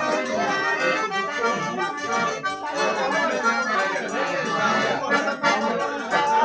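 Accordion-led traditional music with a steady percussion beat.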